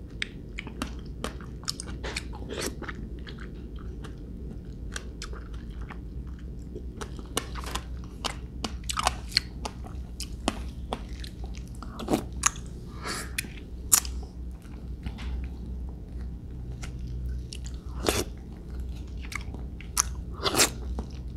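Close-miked chewing of soft star apple (vú sữa) flesh eaten from a wooden spoon: a run of irregular short mouth clicks and smacks.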